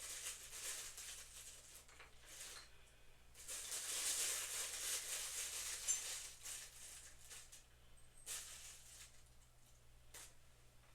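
Rustling and handling noises from parts and packaging being moved about during assembly, in uneven stretches, loudest in the middle, with a small click near the middle.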